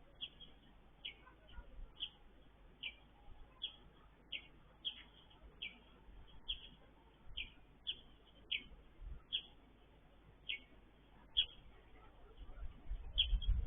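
A small bird chirping a short, high note over and over, about once every three-quarters of a second. A low rumble rises near the end.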